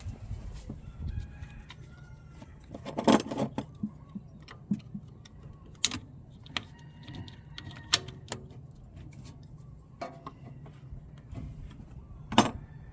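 Scattered clicks, clinks and knocks of plastic covers, clips and metal parts being handled and snapped back into place in a car's engine bay. The sharpest knocks come about three, six, eight and twelve seconds in.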